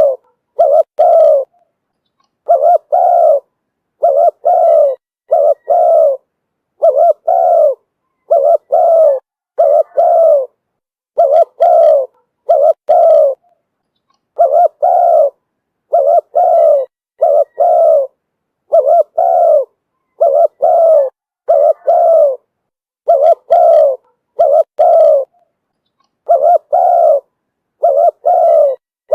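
Spotted dove cooing over and over, short low coo notes in pairs and threes with brief pauses between groups: a decoy call used to lure wild doves.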